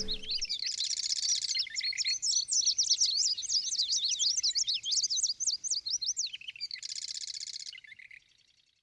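Birdsong: a rapid run of high chirps and twitters, with a short buzzy trill about a second in and another near the end, stopping shortly before the end.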